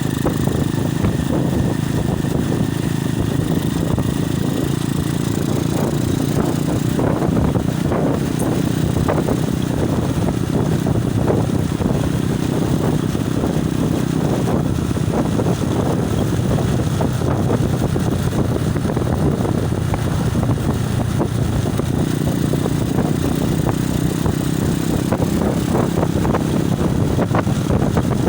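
Loud wind buffeting a phone's microphone on a moving motorcycle, gusting over a steady low rumble from the ride.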